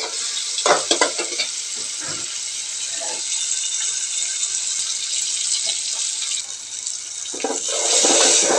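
Sliced onions, tomato and green chillies sizzling in hot oil in an aluminium pot, with a steady high sizzle. A spatula scrapes and stirs the pot a few times, most busily near the end.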